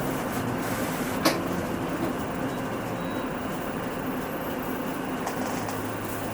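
Cabin sound of a Hino Rainbow II one-step city bus under way: a steady mix of engine and road noise, with one sharp click about a second in. Near the end the engine settles into a steady low hum.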